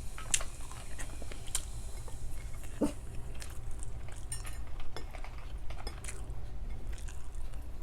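Scattered light clicks, taps and clinks of eating at a table: utensils and plate being handled, with small chewing sounds.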